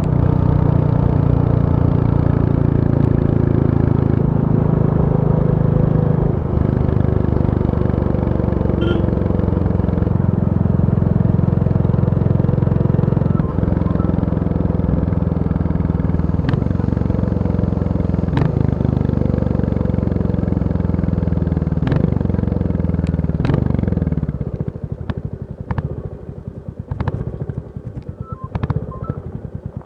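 Royal Enfield Bullet 350 single-cylinder four-stroke engine running steadily, its pitch dipping and shifting a few times. About 24 seconds in it slows and drops to a slow idle, where each separate firing beat can be heard.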